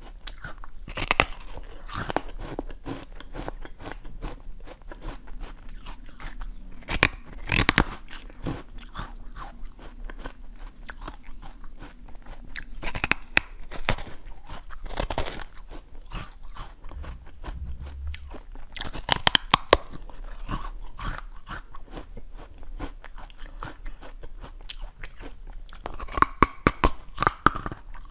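Close-miked biting and chewing of yellow watermelon: repeated crisp crunches, with clusters of louder bites every few seconds.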